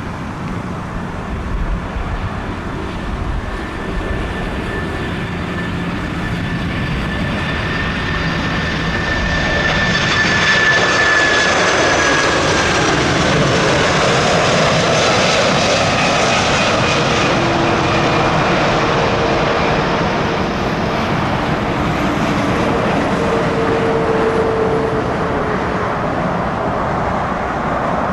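Jet airliner engines passing, a rushing noise that builds to its loudest about ten seconds in and stays strong, with several high whining tones slowly falling in pitch.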